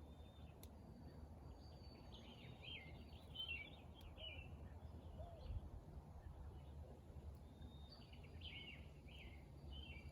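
A songbird singing two short phrases of quick, chirped notes, the second near the end, faint over a steady low background rumble.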